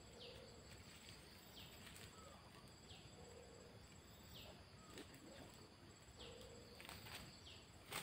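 Quiet rural outdoor ambience with a bird repeating a short falling call about every second and a half. A fainter, lower short note recurs about every three seconds.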